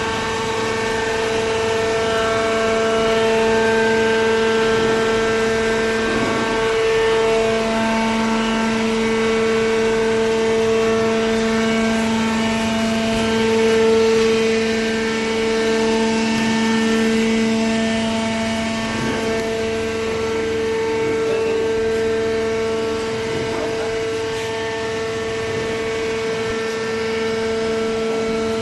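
Hydraulic baler's electric motor and hydraulic pump running, a steady droning whine that shifts slightly in pitch a few times.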